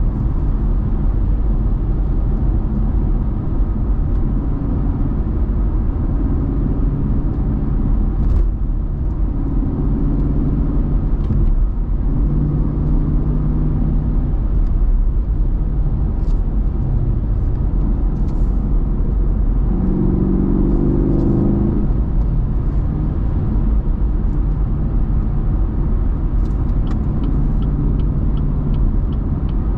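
Muscle car engine running while cruising: a steady deep rumble whose pitch steps up and down as the revs change. A light, regular ticking joins near the end.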